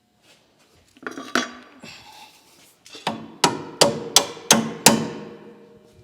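Hammer striking steel: a couple of blows about a second in, then a run of about seven sharp, ringing strikes at roughly three a second, as the strut-to-knuckle bolts are driven into place.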